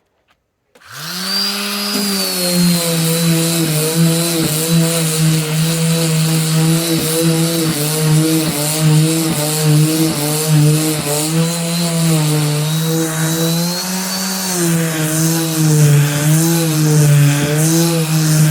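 Electric mouse detail sander starting up about a second in and running steadily with 40-grit sandpaper on a wooden cabinet top. Its motor hum wavers in pitch as it is pressed and moved, over a scratchy rasp of the paper on the wood.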